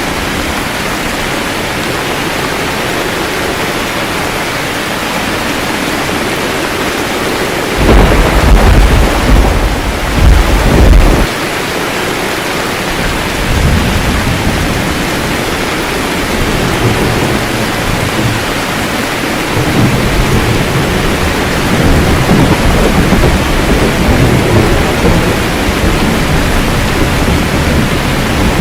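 Steady rain with thunder: a loud crack of thunder about eight seconds in, lasting a few seconds, followed by low rolling rumbles that swell again toward the end.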